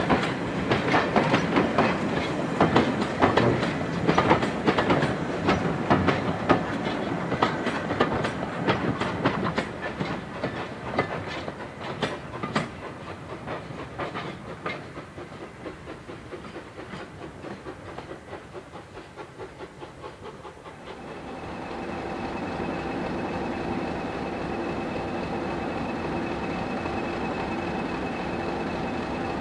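Passenger coaches rolling past and away, their wheels clicking over the rail joints, fading as the train recedes. About two-thirds of the way in the sound switches to a steady diesel hum with a held high whine: Class 50 No. 50027 'Lion' idling at the station.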